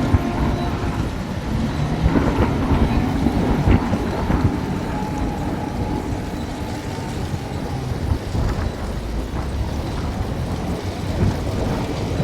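Heavy machinery at work: a steady diesel engine rumble with a few short knocks.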